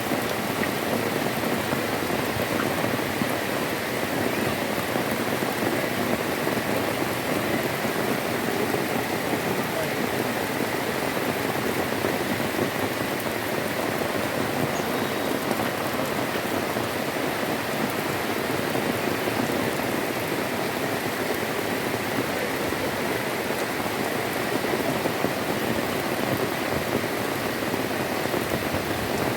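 Heavy rain falling steadily, a dense even hiss of drops striking the ground and surfaces.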